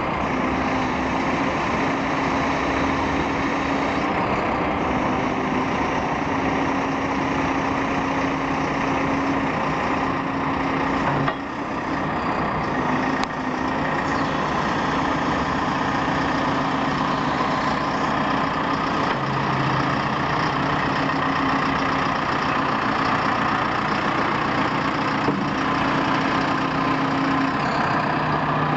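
JCB 3CX backhoe loader's diesel engine running steadily, its note dropping lower about two-thirds of the way through, with a brief dip in level about a third of the way in.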